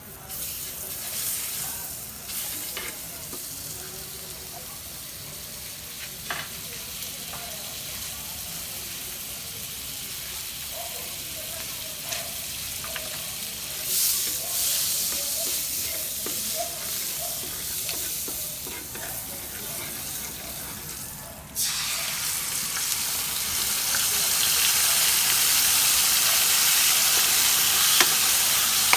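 Flour-coated chicken pieces frying in hot oil: a steady sizzle with a few short clicks. The sizzle turns suddenly louder about three-quarters of the way through and grows louder again soon after.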